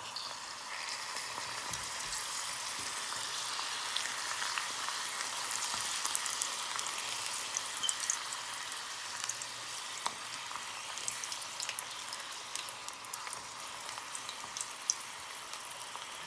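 Dried red chile peppers frying in hot oil in a small saucepan: a steady sizzle with scattered small crackles and pops.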